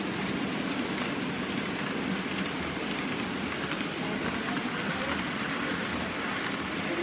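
N-scale model trains running on the layout: a steady whir of small motors and wheels rolling on the track.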